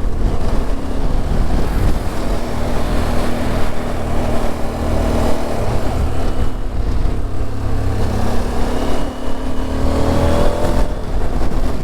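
Motorcycle engine running at road speed under a steady rush of wind and road noise; the engine's pitch rises near the end as it speeds up.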